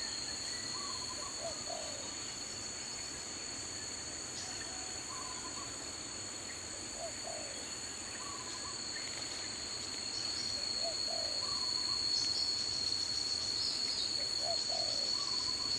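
Daytime forest ambience: a steady high-pitched insect drone, growing louder about two-thirds of the way in, with a short low call repeating about every two seconds.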